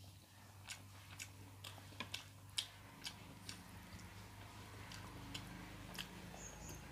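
Faint chewing of food eaten by hand, with scattered small wet mouth clicks over a low steady hum.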